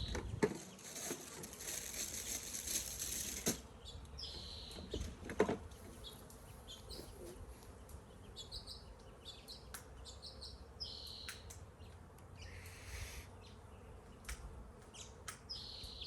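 Short high bird chirps repeating every second or two, over scattered sharp clicks and handling noise while a bee smoker is being lit. There is a hissing stretch at the start and a brief hiss about twelve seconds in.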